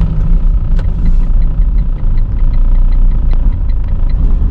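Road and engine rumble heard inside a moving car's cabin, loud and steady. A faint rapid ticking, about five a second, runs through the middle of it.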